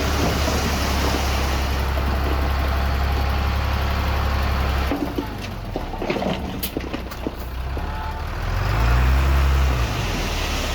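Heavy diesel earthmoving machinery running: a steady low engine drone that drops back about five seconds in, leaving a scatter of clanks and knocks, then the engine revs up and falls back again near the end.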